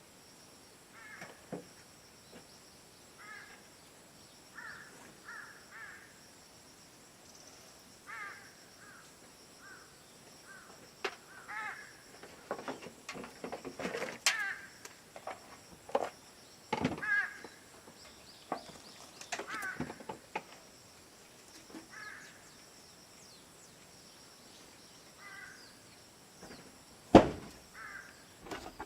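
Crows cawing repeatedly in short calls, mixed with scattered sharp metallic knocks and clicks, the loudest of them a single sharp knock near the end.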